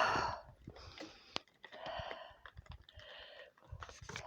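A person's breathing close to the microphone: several short breaths, the strongest at the start and others about two, three and four seconds in, with a few small clicks between them.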